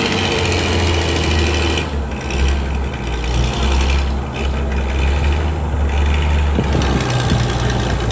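A truck engine running steadily with a deep, even rumble, which eases off near the end.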